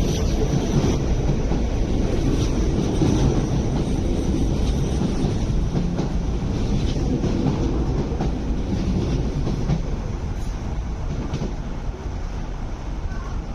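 MTR East Rail Line R-train electric multiple unit rolling past along the platform, wheels rumbling and clacking on the rails. The sound fades gradually over the last few seconds as the last cars move away.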